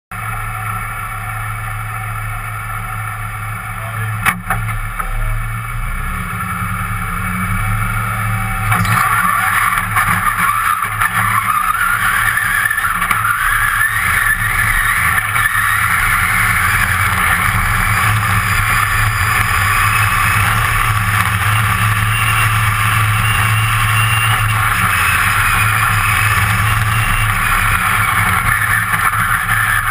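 Competition off-road car's engine heard from inside the caged cab: it runs steadily at low revs, with a sharp click about four seconds in. About nine seconds in it revs up hard and accelerates, with the pitch rising, then runs loudly at high revs as the car drives along the rough course.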